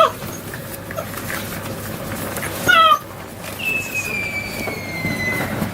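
Six-week-old Anglo Wulfdog puppies yelping and whining. There is a sharp yelp at the start and a loud, wavering yelp about three seconds in, followed by a long, high whine that slowly falls in pitch.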